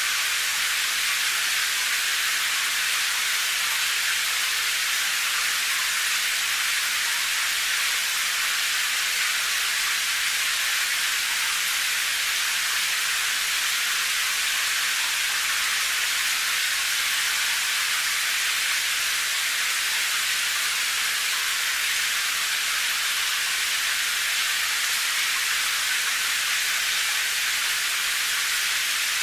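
Steady rain falling, an even high hiss with no change in level.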